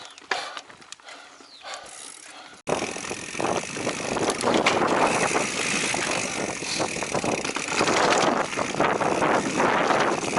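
Giant Trance Advanced Pro mountain bike ridden over a rough trail: light clicking for the first few seconds, then after an abrupt jump, loud continuous noise of tyres on dirt and rock with the bike rattling.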